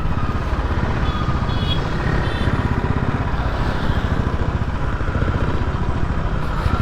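Motorcycle engine running steadily under way, its rapid low firing pulses under a continuous rush of wind and road noise.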